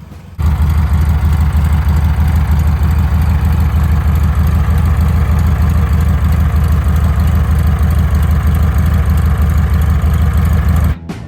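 1973 VW Beetle's air-cooled flat-four idling steadily through an EMPI two-tip exhaust, with a deep, even low pulse. It comes in about half a second in and cuts off suddenly near the end.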